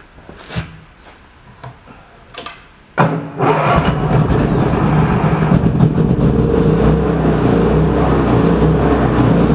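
Suzuki SW140S engine-driven welder-generator: a few faint knocks, then its engine starts suddenly about three seconds in and settles into steady running.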